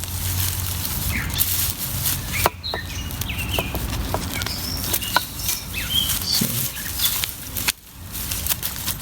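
Irregular rustling and crackling of mulch and soil as elephant garlic is dug and pulled by hand, with small birds chirping now and then in the background.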